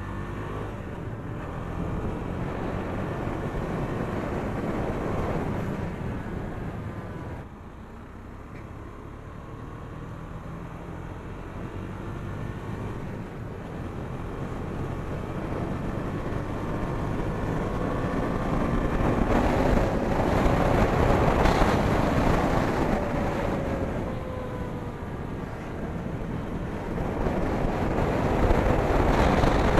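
KTM Duke 250 single-cylinder motorcycle engine running under way, its pitch rising and falling, with wind noise on the microphone that grows louder as the bike picks up speed. The sound drops briefly once, about seven seconds in.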